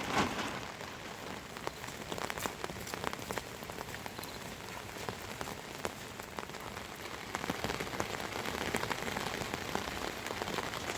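Steady rain falling, with many separate drops ticking on a surface close by.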